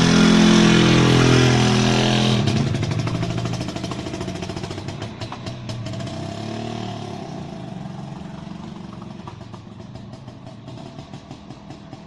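Izh Planeta 4 motorcycle's single-cylinder two-stroke engine running loud at high revs, then pulling away and fading steadily into the distance over about ten seconds.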